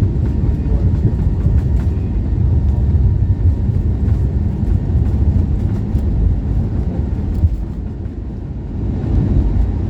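Low, steady rumble inside the cabin of an Airbus A321neo, with a few light clicks and rattles; it eases briefly near the end.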